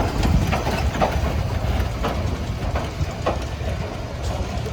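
Small steam locomotive moving slowly along a short stretch of track: a steady low rumble with irregular clanks and knocks.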